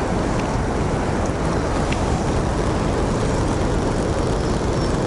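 Steady rushing of river water through the dam tailwater, an even roar with no break.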